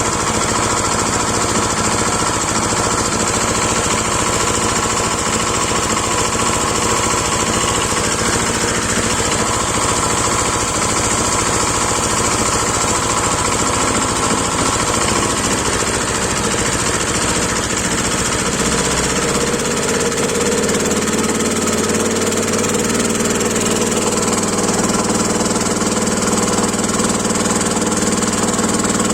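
Engine of a crop-watering boat running steadily, with a steady high hiss alongside; its note changes about two-thirds of the way through.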